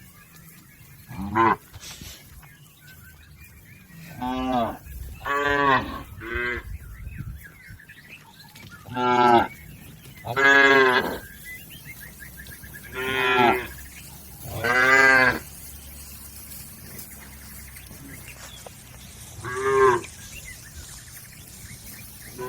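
Domestic village cattle mooing repeatedly, with about nine separate moos over the stretch, each from a fraction of a second to about a second long.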